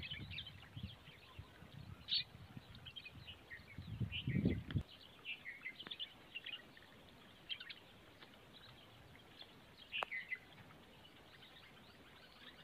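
Small birds chirping repeatedly, with low muffled noise in the first five seconds that then stops, and a sharp click about ten seconds in.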